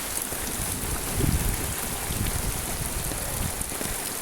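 Heavy rain falling steadily, a dense even hiss, with a brief louder low rumble about a second in.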